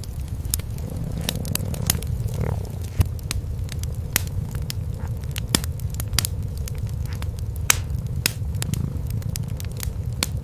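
Wood fire in a fireplace crackling, with frequent sharp, irregular pops, over a low, steady purring from cats.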